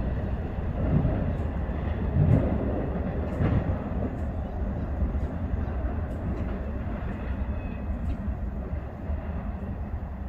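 Freight train rolling past: a steady rumble of the cars with scattered light clicks, easing a little in loudness near the end.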